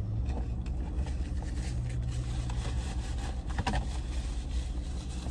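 Steady low rumble with a held low hum, and a brief click about three and a half seconds in.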